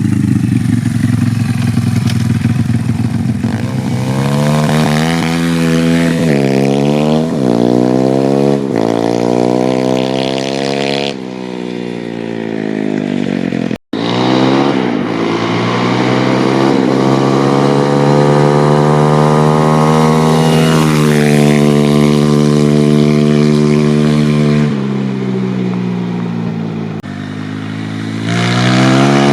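YCF 150 Classic pit bike's 150cc four-stroke engine revving hard as it accelerates up through the gears, the pitch climbing and dropping back with each shift. After a brief cut in the sound it climbs again and holds high, falls off as the throttle closes, and picks up once more near the end.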